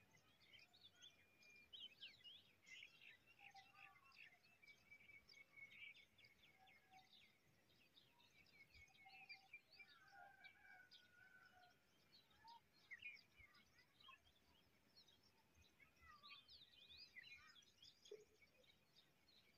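Faint birdsong: several birds chirping and calling over one another in quick, short notes and sweeps, with a few longer held whistles.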